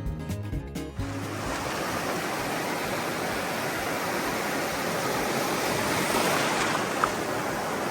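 Surf washing onto the beach: a steady rush of breaking waves that swells a little near the end. A brief high blip sounds about seven seconds in.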